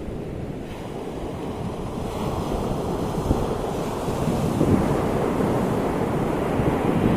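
Ocean waves breaking and washing on the shore, a deep rushing surge that builds about two seconds in, with wind buffeting the microphone.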